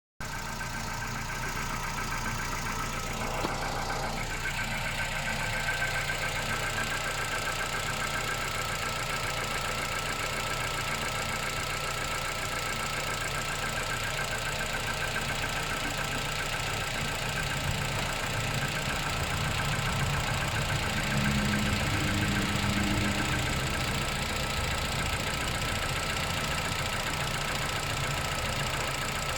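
Engine idling after a cold start, with a steady high whine over the running. This is the cold-start noise the owner wants diagnosed on an engine with only 10,500 km. There is a single click about three and a half seconds in, and the engine runs a little louder for a few seconds past the middle.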